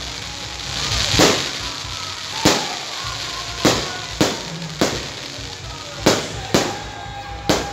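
Aerial fireworks bursting overhead one after another: about eight sharp bangs at uneven gaps of roughly half a second to a second and a bit.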